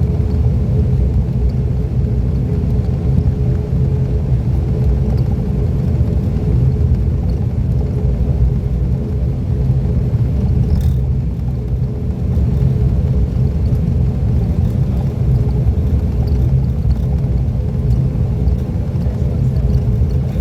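Loud, steady drone of an ATR 42-600's Pratt & Whitney PW127 turboprop engines and propellers, heard inside the passenger cabin as a deep hum with a throbbing propeller tone. There is a brief click about halfway through.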